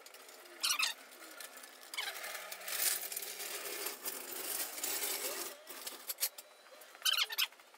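Metal tools and parts clinking and rattling as they are handled and moved, with a longer stretch of rattling in the middle and short clatters about a second in and near the end.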